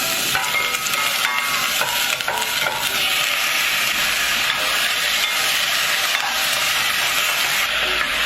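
Food sizzling as it fries in hot oil in a pan, a steady crackling hiss.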